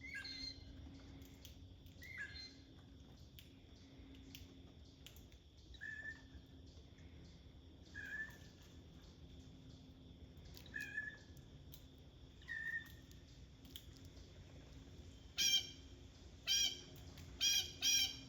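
Short bird calls every couple of seconds, then four loud harsh squawks in quick succession near the end, typical of blue jays.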